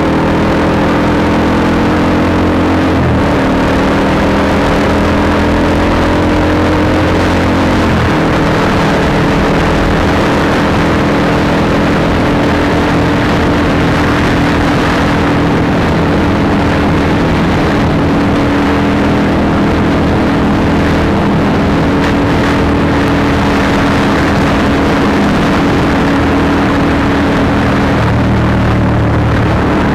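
Honda CBR150R's single-cylinder engine running through an aftermarket Akrapovic exhaust while the bike is ridden. Its note shifts in pitch twice in the first eight seconds, then holds nearly steady.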